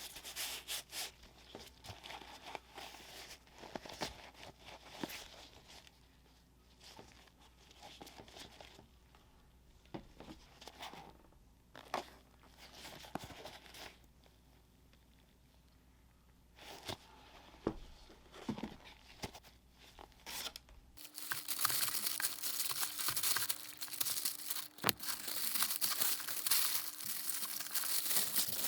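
Paper packaging being handled during a sneaker unboxing, crinkling and rustling with sharp crackles. At first the handling comes in scattered bursts. About two-thirds of the way through it turns louder and continuous.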